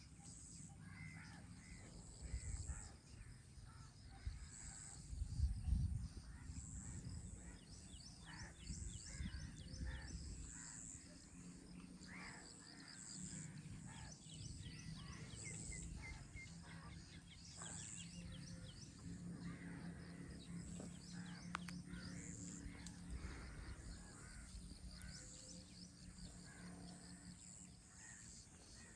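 Outdoor morning ambience with crows cawing now and then and smaller birds chirping in quick runs. Low rumbles come and go, the loudest about five to six seconds in.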